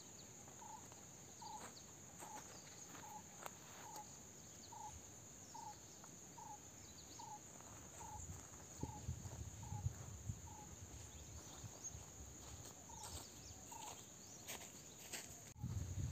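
A bird repeating one short, even note about once every three-quarters of a second, over a steady high-pitched insect drone. Rustling and a few knocks of someone moving at the campsite come in around eight seconds in.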